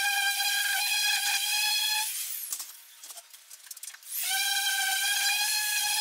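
Electric power tool motor running with a steady high whine and hiss, cutting off about two seconds in and starting again about two seconds later.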